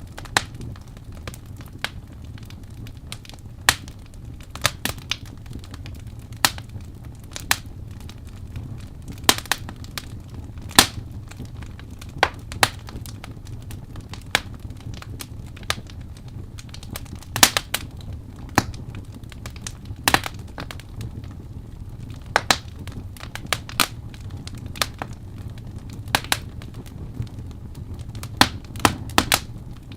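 Campfire burning and crackling: irregular sharp pops and snaps of burning wood over a steady low rumble of the flames.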